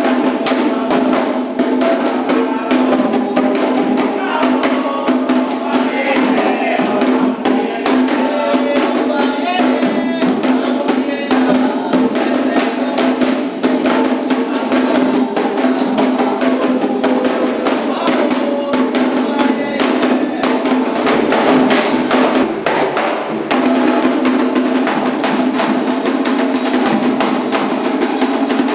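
Candomblé ceremonial drumming: atabaque hand drums played in a fast, continuous rhythm, with voices over the drums.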